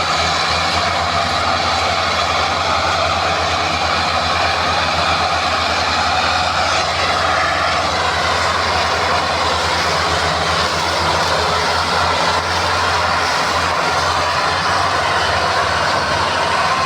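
Massey Ferguson 385 tractor's diesel engine running steadily under load with a deep, even throb, pulling a heavily loaded trolley.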